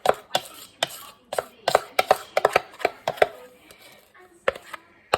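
A kitchen utensil knocking and scraping against a pan as brownie batter is scraped out of it: a quick, irregular run of sharp knocks, each ringing briefly.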